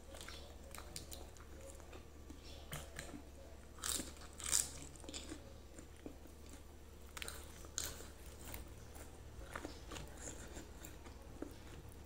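A person eating grilled chicken and rice by hand, close to the microphone: chewing and wet mouth clicks with scattered crisp crunches, the loudest about four seconds in.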